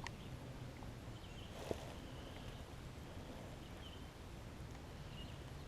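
Faint outdoor ambience with soft, scattered bird chirps over a low steady background hum, and a single light click about a second and a half in.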